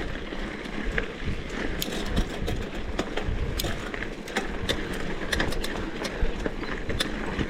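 Bicycle freewheel ticking while coasting, with irregular clicks and rattles over a steady rumble of wind and riding noise.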